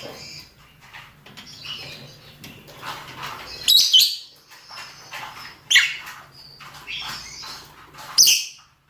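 Rosy-faced and Fischer's lovebirds calling to each other, male and female breeding calls: three loud, shrill shrieks at about four, six and eight seconds in, with softer chattering between them.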